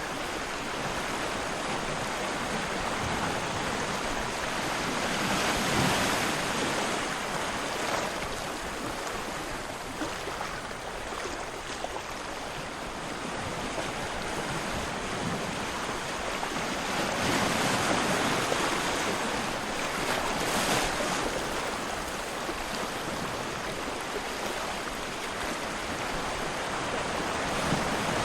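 Ocean waves washing in as a steady rush of surf, swelling louder about six seconds in and again for a few seconds past the middle.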